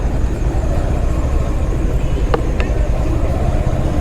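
Motorcycle engine running under way with a steady low rumble, with two short clicks a little past halfway.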